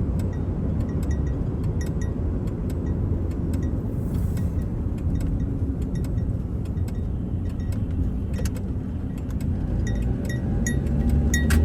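Vehicle driving on a road, heard from inside the cab: a steady low road and engine rumble with scattered light clicks and rattles.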